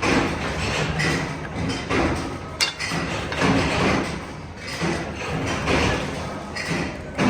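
Hex nut production machinery running in a steady cycle, with a repeating thud about once a second and a sharp click about two and a half seconds in.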